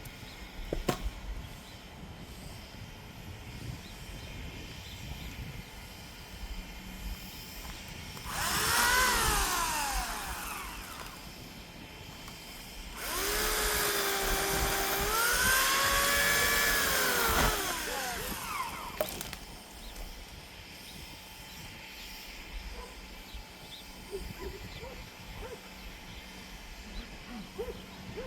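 Electric chainsaw motor whining in two short runs: a brief one about a third of the way in that winds down in pitch, then a longer one about halfway through that spins up, holds a steady whine for a few seconds and winds down.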